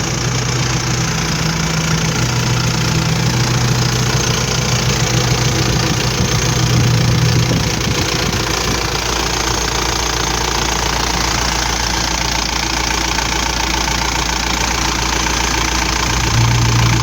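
Isuzu 4JB1 four-cylinder diesel engine idling steadily, with the typical diesel knock.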